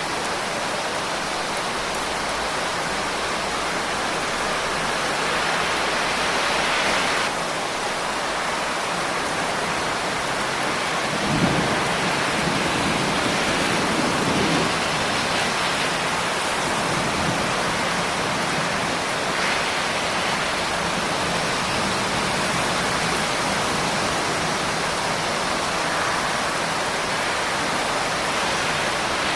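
Steady rain hissing throughout, with a roll of thunder that begins with a sharp crack about eleven seconds in and rumbles low for a few seconds.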